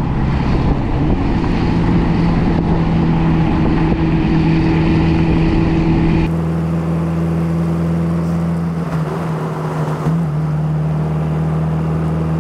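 Lagonda Rapier's 1104cc twin-cam four-cylinder engine running at a steady cruising pitch, with wind noise. The sound changes abruptly about six seconds in, and there is a brief wobble in the engine note near ten seconds.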